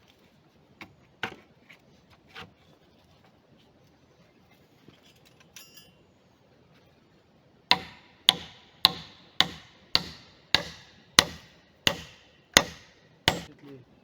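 Hammer blows: a few light taps, then a steady run of about eleven hard strikes, nearly two a second, each ringing briefly.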